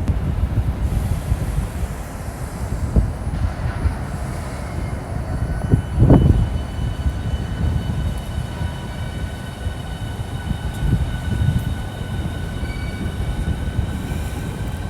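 High-speed electric train running through the station, a steady low rumble with several steady high-pitched whining tones joining about five seconds in and a brief louder swell about six seconds in.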